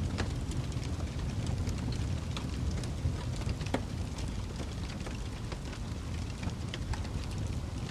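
Wood fire burning in a fireplace: a steady low rumble of flames with scattered crackles and pops of burning wood, one sharper pop near the middle.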